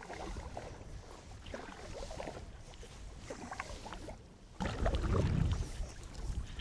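Canoe paddle strokes, the blade dipping into the lake water with splashing and dripping. About four and a half seconds in, a louder low rumble comes in under them.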